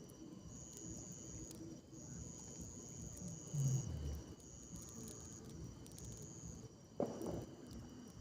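Insects, likely crickets, trilling in a high steady tone that starts and stops in stretches of about a second. A dull low thump comes about three and a half seconds in, and a short rustle near the end.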